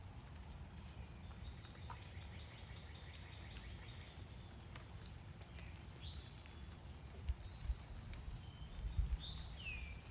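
Backyard songbirds singing and calling: a fast trill of repeated notes, then a few short high chirps and a down-slurred whistle near the end. Some low thumps come in over a steady low rumble.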